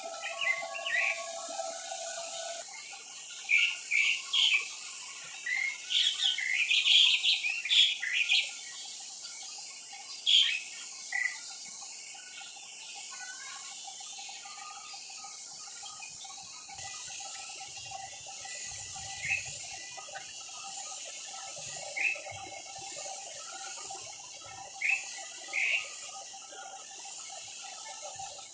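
Birds chirping in short, high calls, bunched together in the first ten seconds or so and scattered after that, over a steady hum.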